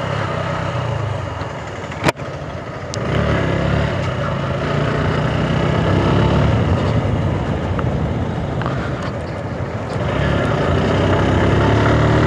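Sports motorcycle engine running under way, with wind noise. A sharp click about two seconds in is followed by a brief dip before the engine pulls louder again, and it picks up once more near the end.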